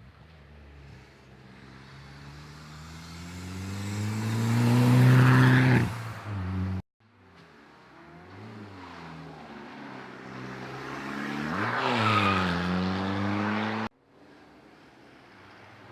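Peugeot cars accelerating hard uphill, one per short clip. Each engine note climbs as the car approaches, is loudest as it passes about five seconds and twelve seconds in, then drops in pitch as it goes away. The sound breaks off abruptly twice, where the clips change.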